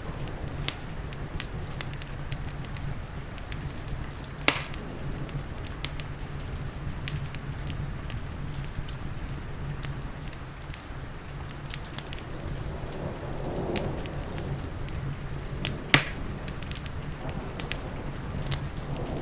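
Crackling wood fire, irregular small pops with two sharper snaps, about four seconds in and near the end, over a steady hiss of rain and a low continuous rumble.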